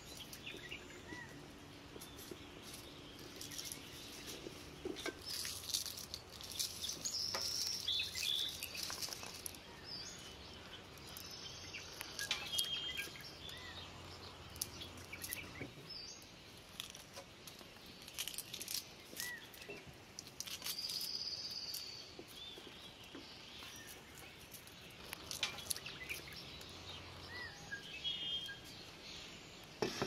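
Songbirds chirping and calling on and off, with scattered light clicks and knocks throughout.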